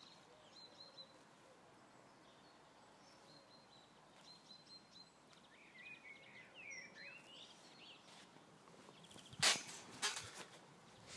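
Small birds singing and chirping faintly in the background over a low outdoor hiss. Near the end come two loud crunching rustles about half a second apart.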